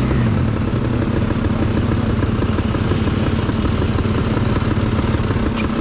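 Motorcycle engine running at a steady, low engine speed, with no revving or gear changes.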